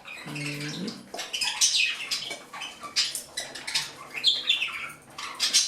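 Pets moving about on the floor: quick scratchy clicks and rustling, with a short pitched sound just after the start.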